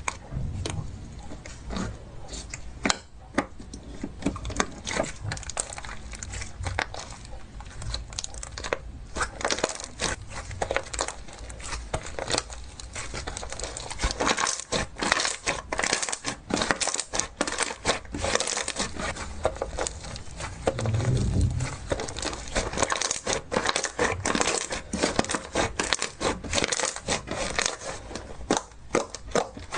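Slime being squeezed and pressed by hand, giving a dense run of quick crackling pops and clicks that grows busier about a third of the way in. A brief low thump comes about two-thirds of the way through.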